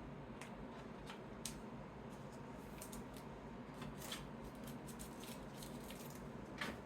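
Trading cards being handled during sorting: scattered soft clicks and rustles as cards are picked up, slid and set down, the loudest one near the end, over a faint steady room hum.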